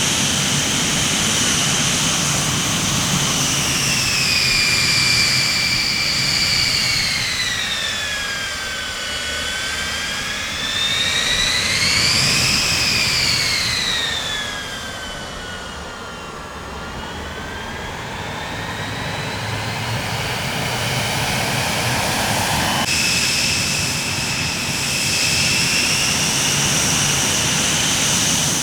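Jet airliner engines running with a high-pitched whine made of several tones. The pitch sinks, swells back up about twelve seconds in, then sinks again. The sound changes abruptly about twenty-three seconds in.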